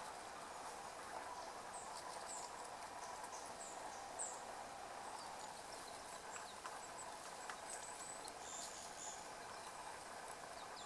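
Small birds giving short, thin, high-pitched call notes, scattered irregularly, over a steady outdoor background hum.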